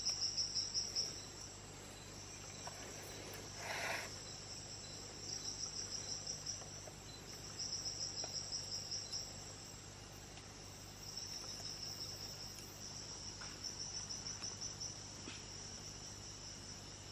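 Rainforest insects chirping: high, fast pulsed trills of about eight pulses a second, in bursts of one to two seconds that repeat every few seconds.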